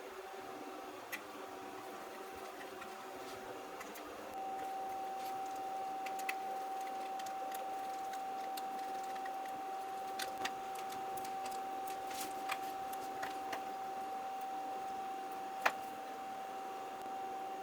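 A steady machine whine that gets louder about four seconds in, with light clicks and taps scattered over it and one sharper click near the end.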